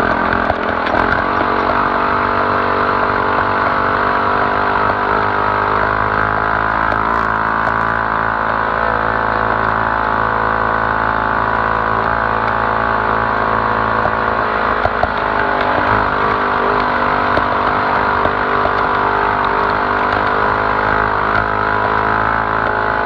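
Polaris RZR 200 UTV's small single-cylinder engine running at steady high revs under sustained throttle, its pitch holding nearly level throughout.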